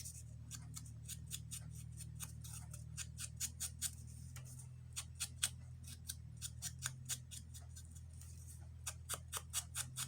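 Scissors snipping paper in short, quick cuts, about three or four snips a second, while fussy cutting around a small paper image.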